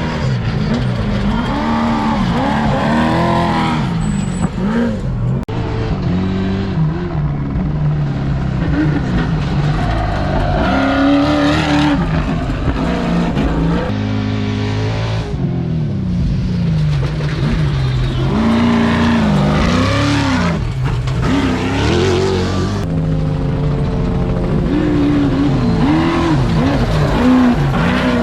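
Trophy truck V8 racing engines revving hard and racing past one after another, their pitch climbing and falling as they accelerate and back off over rough desert ground.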